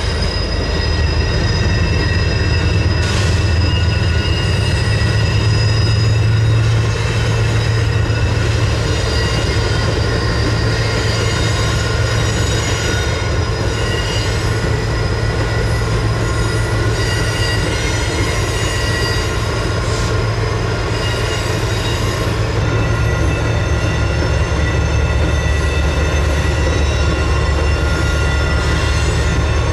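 Intermodal freight train's container cars rolling past: a steady low rumble of wheels on rail with several high-pitched wheel squeals held over it.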